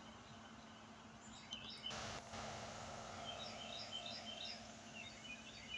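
Faint bird chirps outdoors, a scattered series of short high notes, with a brief rush of noise about two seconds in.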